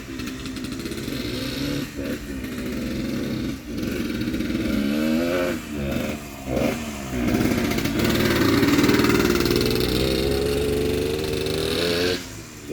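Yamaha DT100 two-stroke single-cylinder dirt bike being ridden, the engine revving up and down with several brief drops in revs around the middle. It then pulls at higher revs, the pitch climbing slowly for a few seconds before it falls away near the end.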